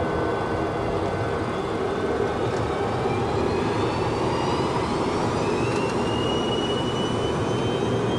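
Boeing 737-200's Pratt & Whitney JT8D turbofan engines running up to takeoff thrust: a steady loud roar with a high whine that rises in pitch from about three seconds in as the thrust comes up.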